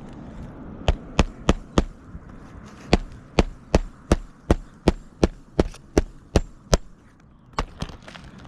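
Hammer driving a roofing nail flush through asphalt shingles: a run of sharp blows, four quick ones, a short pause, then about a dozen more at roughly three a second, ending with two lighter taps.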